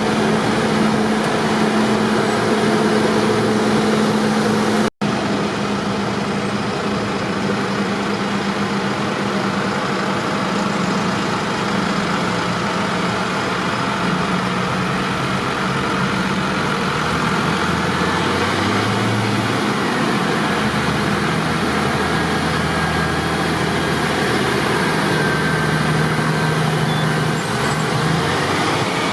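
Tractor engine running steadily, a low drone whose pitch shifts slowly. The sound cuts out for a split second about five seconds in.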